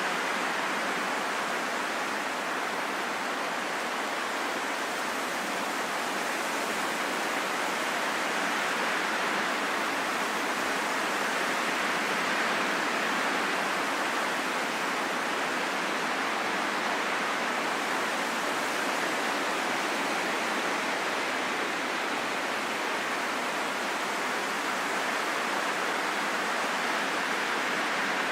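Steady rain falling in a forest: an even, unbroken hiss with no separate drops standing out.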